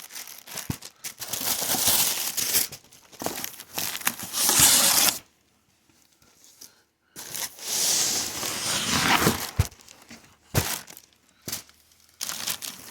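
Packaging being torn open and crinkled while a boxed radiator is unwrapped: bursts of rustling and tearing with a few knocks, pausing for about two seconds midway.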